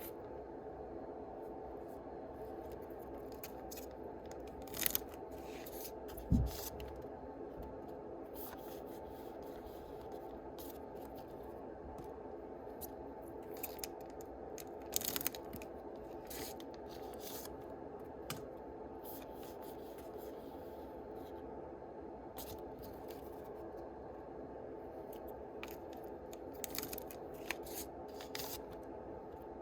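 Yu-Gi-Oh booster packs being opened and the cards handled: short scattered crinkles, rustles and clicks of foil wrappers and card stock over a steady background hum, with one dull thump about six seconds in.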